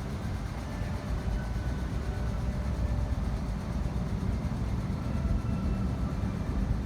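MTR SP1900 electric train running on the rails: a steady low rumble that grows slightly louder.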